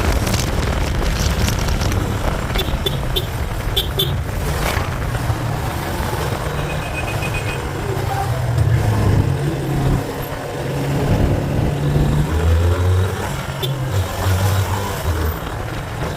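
Motorcycle engine running under way in road traffic, its low note rising and falling as the bike speeds up and slows, over steady road and wind noise. The bike is a Yamaha Fazer FZ25, a 250 cc single-cylinder.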